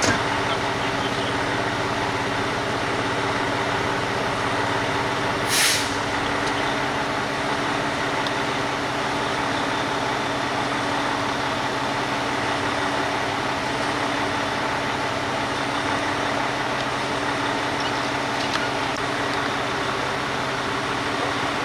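Steady drone of a running vehicle, with constant low engine tones under road noise. About five and a half seconds in there is one short, sharp hiss, like an air brake releasing.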